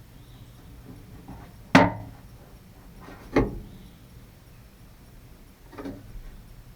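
Three sharp knocks, about one and a half and then two and a half seconds apart. The first is the loudest and the last the faintest, each dying away quickly.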